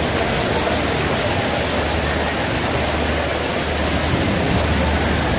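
Heavy rain falling, a steady even hiss, with a low rumble underneath.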